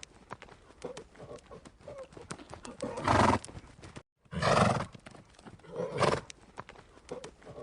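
Hooves clopping with a few small calls and one loud animal call about three seconds in. A short sound clip cuts out for a moment about four seconds in and starts over.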